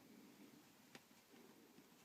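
Near silence: faint room tone with a single small click about a second in.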